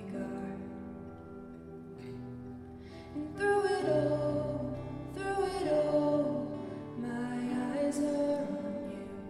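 Live worship band playing a slow, soft instrumental passage: sustained chords on keys, guitar and bass, changing every couple of seconds and swelling louder about a third of the way in, heard through the room's acoustics.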